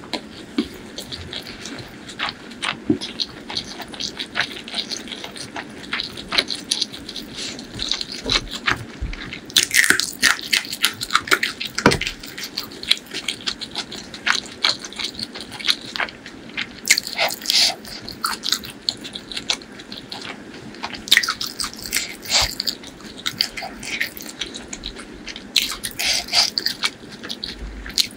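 Close-miked chewing of chicken liver and gizzard curry with white rice: a steady run of mouth clicks and smacks, with several busier, louder flurries of chewing and a bite into a piece of meat near the end.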